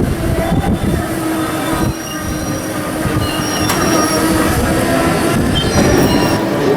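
Wildwood boardwalk tram car rolling along the wooden boardwalk: a steady rumble with thin, high squealing tones that come and go.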